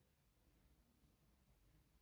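Near silence: faint low hum and hiss of room tone.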